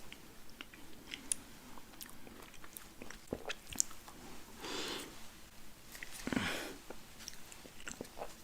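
Close-miked eating ASMR: chewing and biting into a burger and french fries, with many small wet mouth clicks and two longer, louder bites about halfway and two-thirds of the way through.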